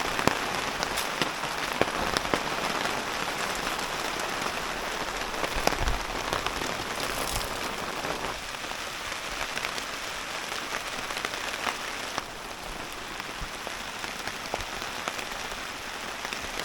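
Heavy rain falling steadily, with many drops ticking on tarps. The sound eases a little about eight seconds in and again around twelve seconds.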